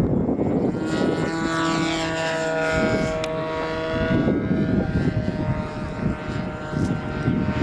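Radio-controlled model airplane's engine and propeller running in flight, a steady pitched note that is strongest in the first half and drops a little in pitch. Wind buffets the microphone throughout.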